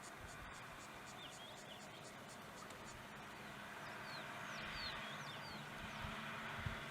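Faint bird calls: a few short chirps a little over a second in, then a run of quick downward-sweeping high notes in the middle, over a steady background hiss.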